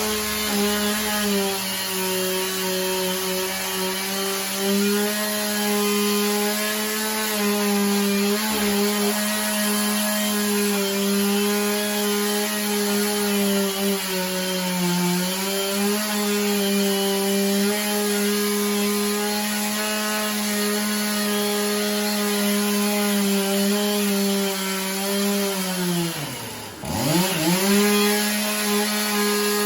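A big two-stroke chainsaw running at full throttle through a large hickory log, its pitch wavering slightly as the cut loads it. Near the end the throttle is let off, and the engine sinks almost to idle before revving straight back up.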